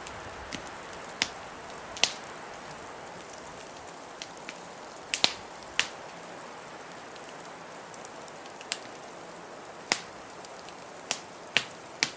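Wood fire crackling, with sharp irregular pops about once a second, over a steady hiss of blizzard wind.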